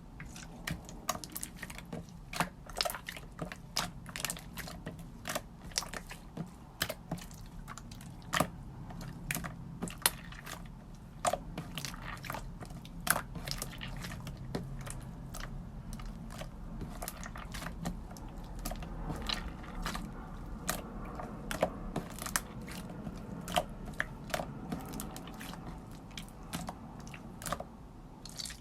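Crisp, irregular clicks and crunches close up, a few each second, over a low steady hum.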